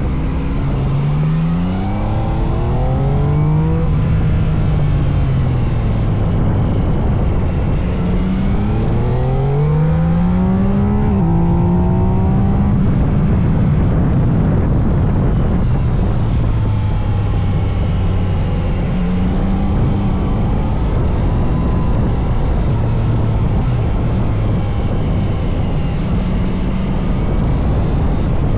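Yamaha MT-09 SP's three-cylinder engine under way, revving up twice, rising in pitch each time, with a sudden drop in revs at the end of the second run, then running at steadier, lower revs that rise and fall a little.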